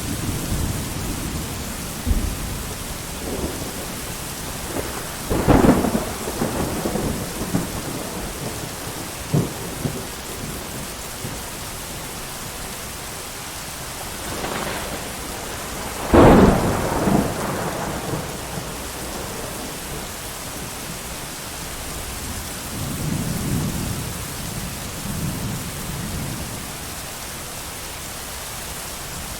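Steady heavy rain with thunder. Loud claps come about five seconds in and, loudest, about sixteen seconds in, each trailing off in rumbles, with softer distant rumbling near the end.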